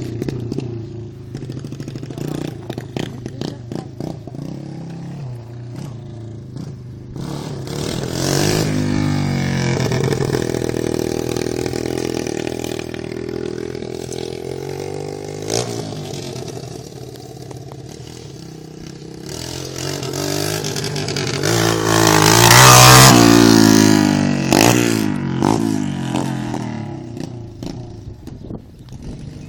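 Dirt bike engine running and revving repeatedly, its pitch rising and falling as it is ridden about. It is loudest about twenty-three seconds in, when it comes closest, and then drops back.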